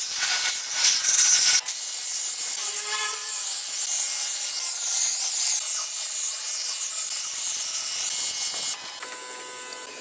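Pressure washer spraying water, a loud hiss for the first second and a half, then a steadier, softer hiss that cuts off suddenly about a second before the end.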